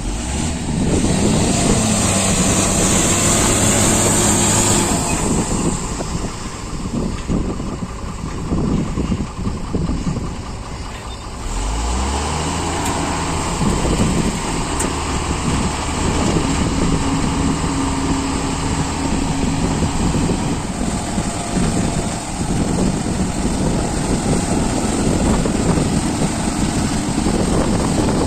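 Heavy diesel machinery engines running, with a high hiss in the first few seconds and an engine revving up about eleven seconds in.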